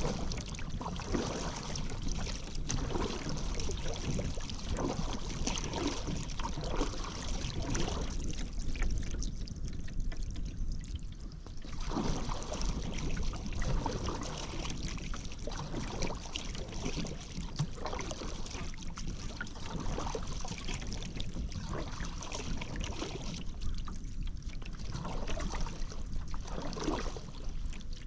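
Paddle strokes in river water, splashing and dripping at an uneven pace of roughly one every second or two, with a pause of a few seconds near the middle.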